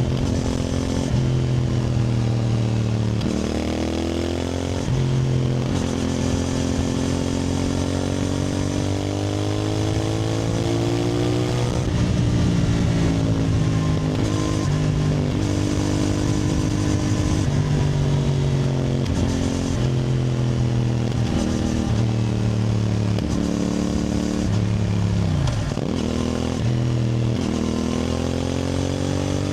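CFMoto 450NK's parallel-twin engine under way, its pitch rising under throttle and dropping back again and again as the rider works through the gears, with a deep dip and recovery near the end.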